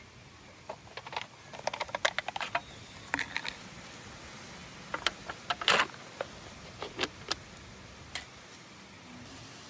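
Irregular light clicks and clinks in clusters, as of hard objects such as utensils being handled, with a short louder clatter a little past the middle.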